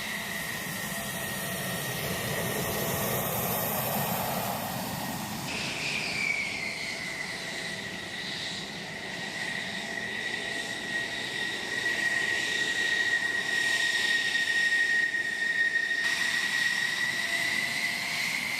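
Jet aircraft engines running, a steady high whine over a rushing noise. The sound changes abruptly about five seconds in, where the whine dips slightly in pitch, and again near the end, where it rises.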